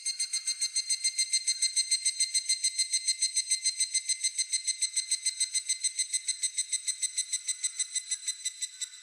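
Higurashi (evening cicada) calling: a rapid run of ringing, pulsed notes, about eight or nine a second, that swells in at the start, holds steady and stops near the end.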